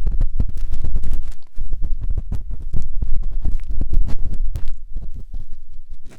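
Close scratching, rubbing and soft knocking of a matchstick inside a 3Dio binaural microphone's silicone ear, in a dense irregular run with a heavy low rumble.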